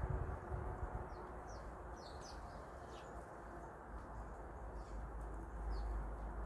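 Small backyard birds giving short, high chirps scattered through, over a steady low background rumble.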